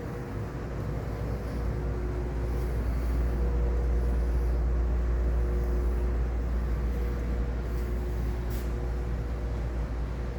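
Motorcycle engine running with a steady low rumble, swelling louder in the middle and then easing off slightly.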